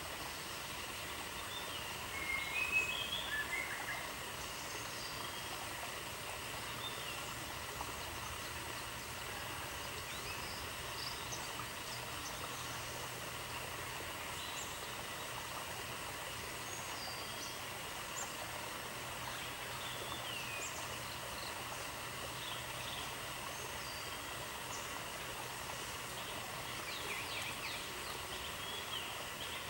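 Steady outdoor ambience with a constant hiss, dotted with short, scattered bird chirps; a brief flurry of chirps about two to four seconds in is the loudest moment.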